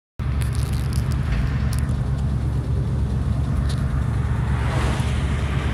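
1965 Ford Mustang's V8 engine running with a steady low rumble, heard from inside the car, cutting in abruptly a moment in.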